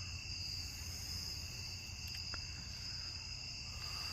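Evening insect chorus of crickets, a steady, unbroken high-pitched trilling at two pitches.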